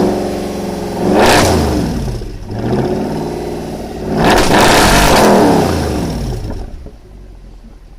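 Mercedes-AMG C63's V8 engine and exhaust revving hard twice, pitch climbing and falling, then dying away to a quiet hum near the end.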